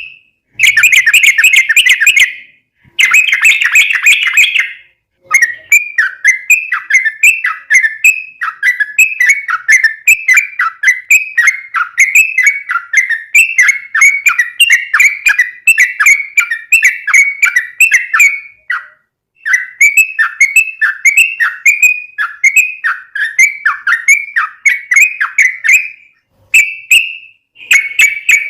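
Sooty-headed bulbul (trucukan) singing loud, long, rapid runs of warbling notes with only brief breaks, the long continuous 'ropel' song used as a lure recording to get other trucukan singing.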